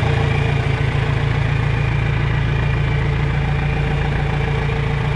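A John Deere 3010's propane-fuelled four-cylinder engine idling steadily.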